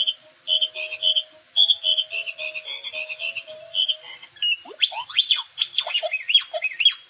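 Electronic toy phone's speaker playing a short tune of steady beeping notes, then a quick run of rising and falling whistle-like glides in the last few seconds.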